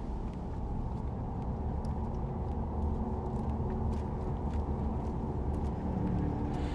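Steady low rumble of road traffic, with faint short clicks scattered through it.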